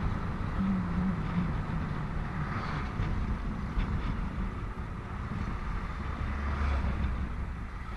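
Riding a motorcycle in highway traffic: steady engine and road rumble, with a low engine hum that drifts slightly lower in pitch during the first few seconds.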